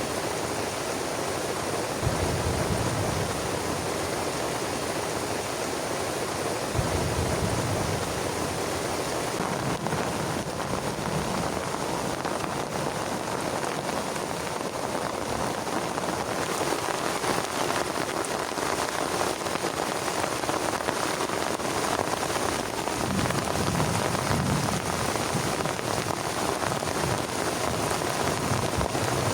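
Heavy rain falling steadily on a plastic tarp shelter, a dense continuous patter. It swells briefly and deepens a few times.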